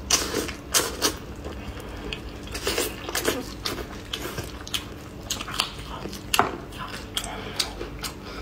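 Close-up chewing and wet lip-smacking of someone eating braised pork rib meat by hand, a string of irregular sticky mouth clicks and smacks.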